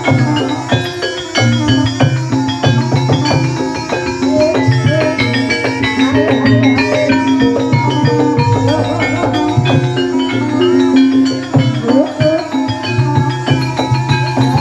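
Javanese gamelan music accompanying an ebeg horse dance: struck mallet instruments play a dense, rapid pattern over sustained low tones.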